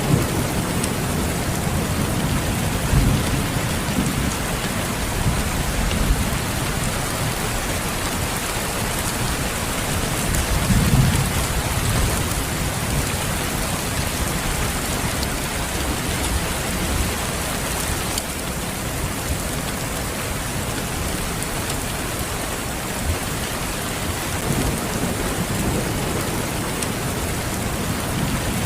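Steady rain falling, with low rumbles of thunder swelling up a few times: about 3 seconds in, around 11 seconds, and again near the end.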